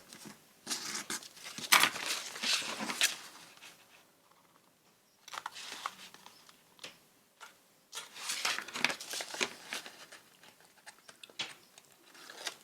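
Paper and card being handled and rubbed on a craft table: crinkling, rustling and scraping in three main bursts, with a quiet gap about four seconds in.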